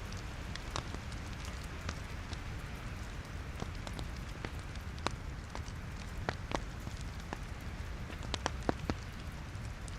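Log fire in a fireplace crackling: a steady hiss with irregular sharp pops, and a quick run of several pops near the end.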